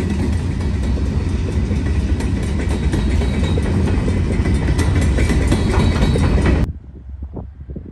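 Freight train passing close by at a grade crossing. The trailing diesel locomotives go by, then covered hopper cars roll past with a heavy rumble and steady wheel clatter. The sound cuts off suddenly about a second before the end, leaving faint wind noise.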